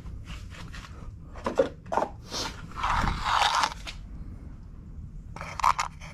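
Steering-wheel parts and small screws being handled during reassembly: a few short clicks and scrapes, with a longer scraping rustle about three seconds in and a quick run of clicks near the end.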